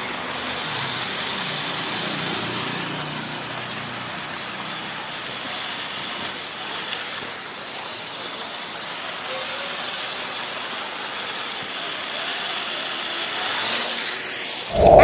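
Steady hiss of rain, with an RC crawler's small electric motor whirring at low pitch in the first few seconds. Music cuts in suddenly right at the end.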